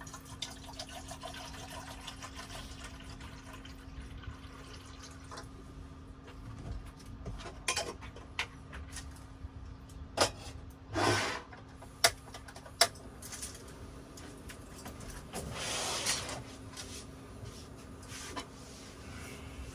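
Hot water poured into a tea cup twice, each pour a short rush of liquid, for brewing green tea, with sharp clinks of cups and teaware in between. A steady low hum runs underneath.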